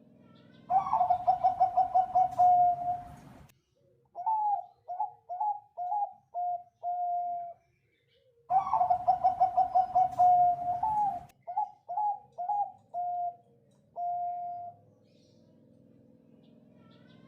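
Zebra dove (Bangkok perkutut) cooing: two full song phrases, each a fast rattling run of notes followed by a string of separate clipped coos.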